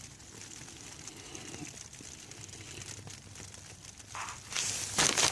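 Steady rain pattering, heavier now. Near the end a louder burst of rustling and crinkling takes over.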